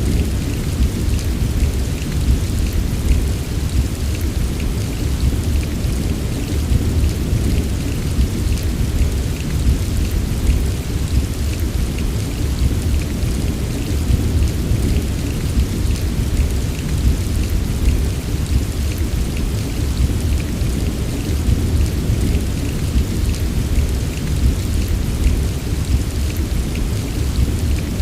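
Steady heavy rain, a dense patter of drops over a continuous deep low rumble, with no separate thunderclap.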